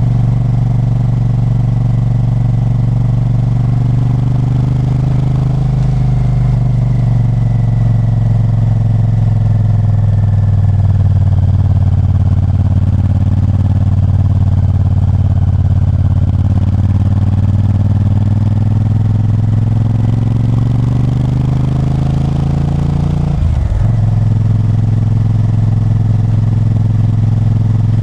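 Honda Varadero 1000's V-twin engine running under way. Its pitch eases down through the middle, climbs again, then breaks quickly at a gear change about three-quarters of the way through and runs on steady.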